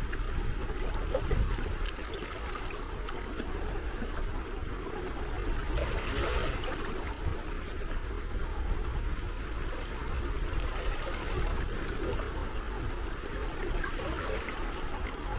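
Small sea waves lapping and trickling at the water's edge, a steady wash of water with a low rumble underneath.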